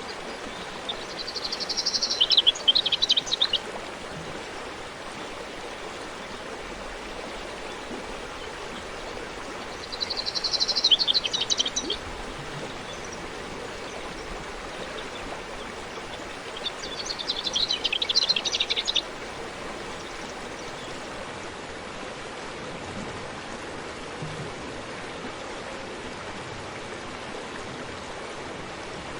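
Steady rushing of a forest stream, with a songbird singing three times, roughly every seven or eight seconds. Each song is a quick trill of about two seconds that drops in pitch toward its end.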